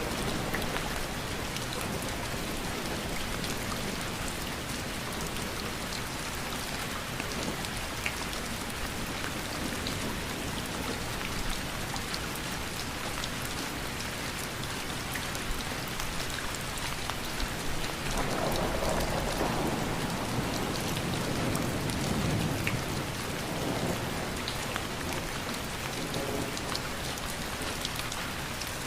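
Steady rain falling, with individual drops ticking through the hiss. A low rumble swells in about eighteen seconds in and fades some five seconds later.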